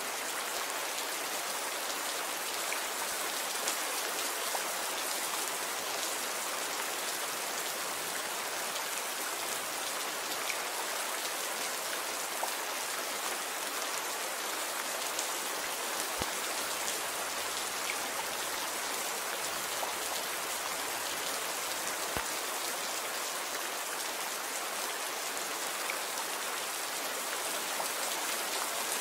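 Steady rain falling: an even hiss of drops with a few sharper individual drop ticks.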